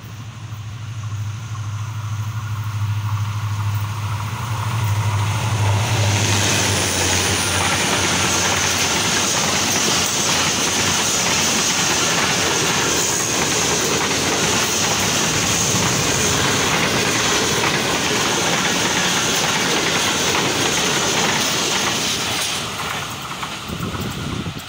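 Passenger train hauled by an HGMU-30 diesel-electric locomotive, approaching with a steady low engine drone that grows louder and then passes close at speed. The drone gives way to a loud rush of wheel-on-rail noise with clickety-clack as the coaches go by, easing off near the end as the last coach passes.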